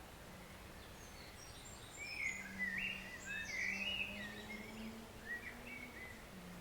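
A forest stream running steadily, with a songbird singing a quick phrase of varied chirping notes from about two seconds in until near the end. A faint low steady hum sits underneath in the second half.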